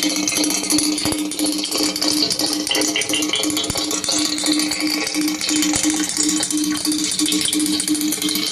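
Dense rattling, crackling noise picked up by a listening microphone in a borehole, over a low hum that pulses on and off a few times a second. The recorders take it for the sound of tunnel digging underground.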